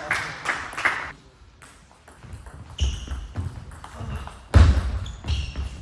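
Table tennis rally: the celluloid-type ball clicks sharply off bats and table, with a loud heavy thump about halfway through.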